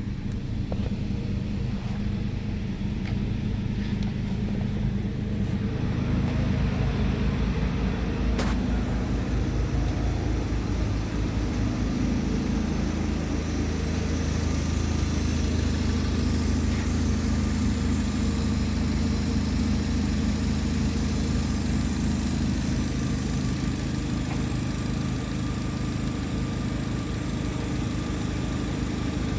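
2008 Saturn Astra XR's 1.8-litre four-cylinder engine idling steadily, with a single sharp click about eight seconds in.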